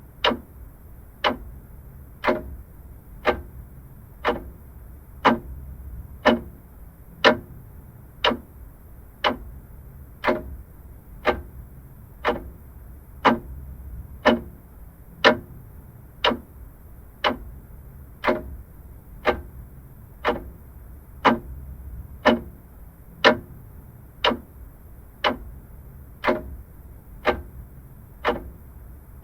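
Vintage clock ticking steadily, one sharp tick about every second.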